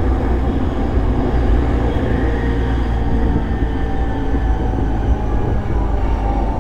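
Running noise inside an E233-series electric commuter train: a steady, loud low rumble of wheels on rail, with faint steady tones above it.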